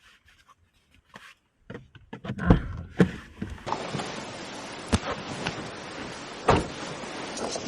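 Several sharp knocks and thumps of gear being handled, the loudest about two and a half and three seconds in, then a steady outdoor hiss rising up behind them from about four seconds in, with a few more thumps over it.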